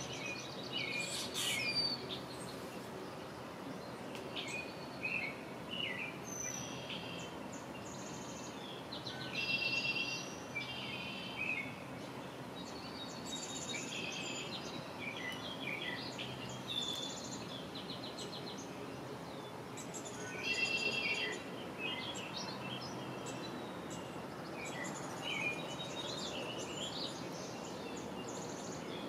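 Wild birds calling over and over, a mix of short chirps and buzzy chattering calls, over a steady low background noise.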